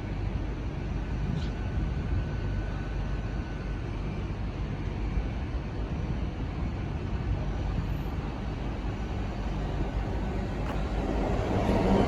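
Class 66 diesel freight locomotive passing through, its two-stroke V12 engine giving a steady low rumble that grows louder toward the end.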